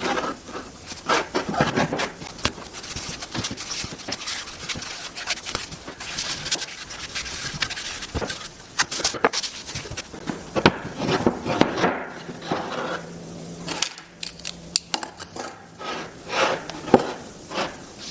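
Wooden workpieces being handled and worked by hand: irregular knocks, taps and scraping of wood on wood and on the bench.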